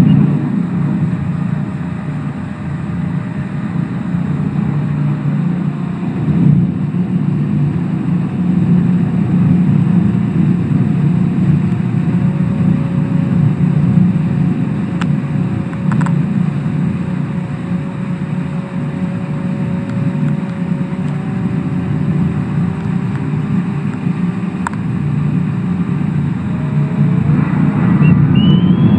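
Kawasaki STX-1100 jet ski's two-stroke triple engine running at speed, a steady drone whose pitch wavers only slightly. Near the end the pitch climbs sharply as the engine revs up.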